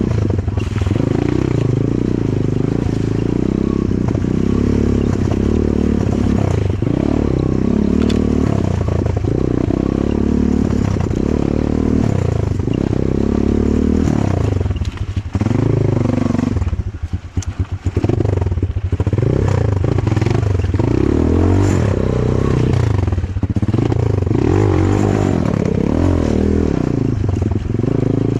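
Enduro motorcycle engine revving up and down again and again under load, with a short drop in revs a little past halfway through.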